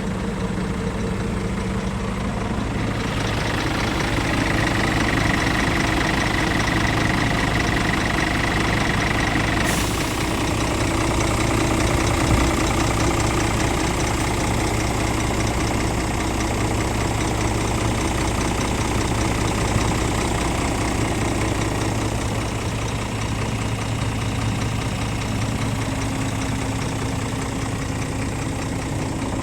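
Scania R450 truck's 13-litre straight-six diesel idling steadily. A thin high whine sounds over it for several seconds and cuts off with a click about ten seconds in.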